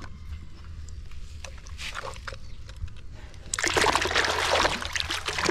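Water splashing and sloshing, starting suddenly about three and a half seconds in, after a few small knocks.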